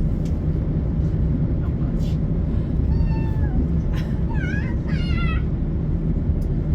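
Class 170 diesel train running, heard as a steady low rumble. A few short wavering pitched cries come in about three to five seconds in.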